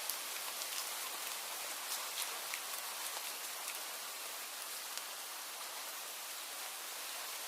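Steady rain falling, a dense hiss with many individual drops ticking sharply on a hard surface.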